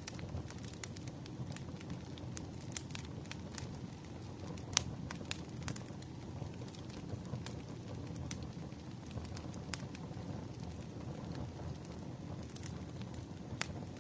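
Burning firewood crackling and popping irregularly over a low steady rush of flame, with one louder pop about five seconds in.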